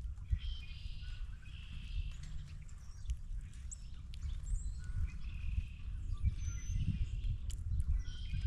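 Wild birds calling, with a scatter of short calls and chirps over a steady low rumble of wind on the microphone.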